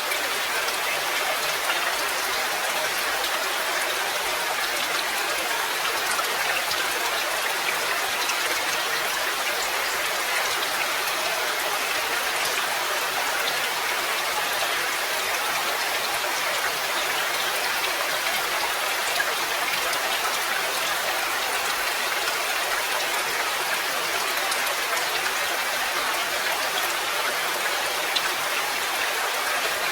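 Steady rain: an even, dense hiss of many drops with fine individual drop ticks, a couple of them a little louder in the second half.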